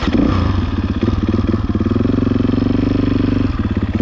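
Enduro dirt bike engine idling close by, a steady rapid pulsing that grows louder for a couple of seconds in the middle before settling back.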